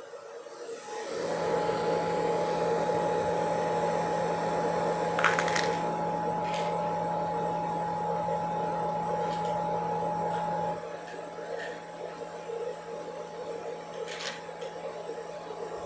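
A small electric household appliance's motor switches on and runs with a steady hum and whirr for about ten seconds, then cuts off suddenly. A few light clicks follow.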